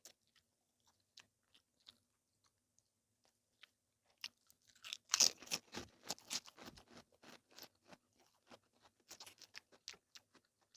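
A person chewing food with the mouth: small wet clicks at first, then a burst of crunchy chewing about five seconds in that thins out to scattered clicks.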